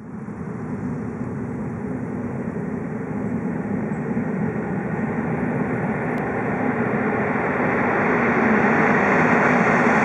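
An approaching ICE high-speed train, not yet in sight: a steady rushing noise that grows gradually louder, most clearly from about three seconds in.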